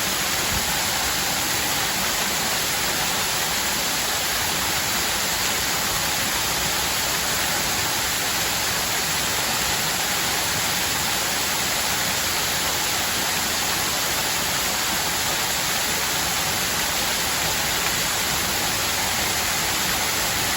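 Water fountain with water falling and splashing steadily: an even, unbroken hiss.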